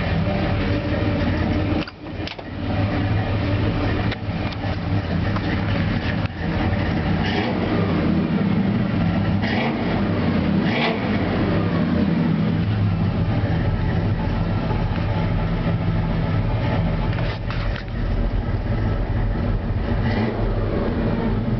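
Chevy 454 big-block V8 with a thumper cam, Hooker headers and a gear drive, running loud and steady with a deep low rumble. The sound drops off briefly about two, four and six seconds in before picking back up.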